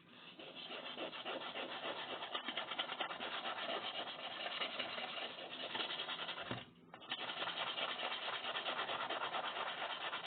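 Steel knife blade being drawn repeatedly across a sharpening hone, a continuous rasping scrape with one short pause about six and a half seconds in.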